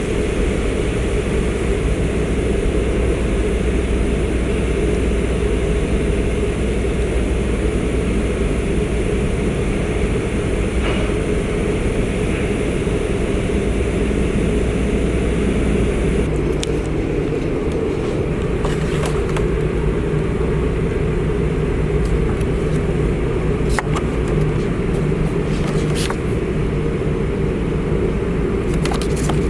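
Steady low rumble of a road vehicle in motion, with a few faint clicks in the second half.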